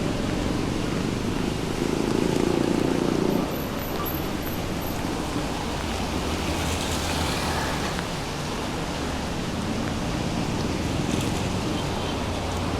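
City street traffic noise under a steady hiss. A vehicle's low engine sound swells louder about two seconds in and drops away a little over a second later.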